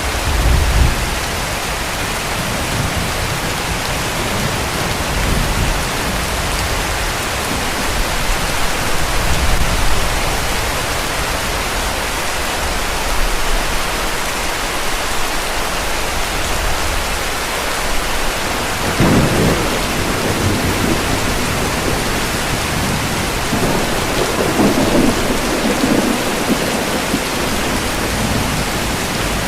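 Heavy rain falling steadily, with distant thunder rumbling low under it several times, most strongly near the start and again about two-thirds of the way through.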